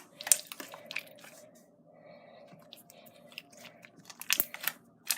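Jiggly slime being squished and pressed by hand, giving sharp wet clicks and pops in little clusters, a few soon after the start and a quick run about four seconds in, with a quieter spell of soft squishing between.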